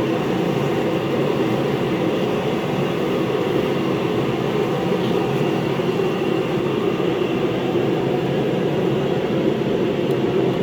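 Steady low drone of a running machine, unchanging throughout.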